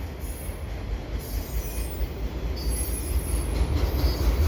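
Freight cars of a passing freight train rolling by: a steady low rumble of steel wheels on rail, with a faint high wheel squeal now and then.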